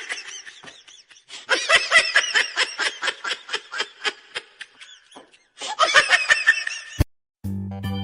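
A person laughing hard in quick, repeated bursts, in two or three bouts. Near the end a click is followed by organ music starting.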